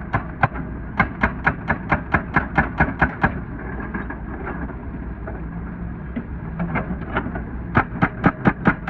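Hydraulic breaker on a wheeled excavator hammering asphalt in rapid, regular blows, about four a second. The hammering stops about three seconds in, leaving the excavator's engine running, and starts again near the end, a little faster.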